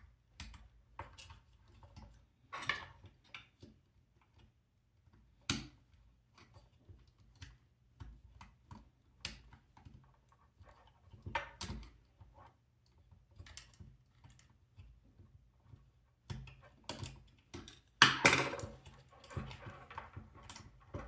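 Scattered small clicks and knocks from handling robot parts while plugging cables into the servo motors, with a louder cluster of clatter about eighteen seconds in.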